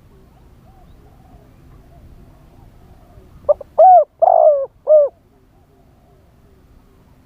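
Spotted dove cooing: one loud four-note coo phrase about halfway through, with fainter doves cooing in the background.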